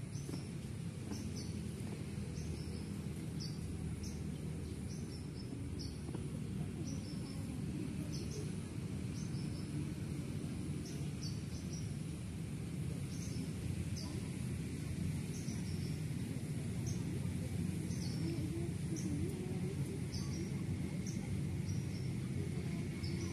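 Open-air ambience: a steady low background rumble, over which a small bird gives short high chirps, repeating about once or twice a second.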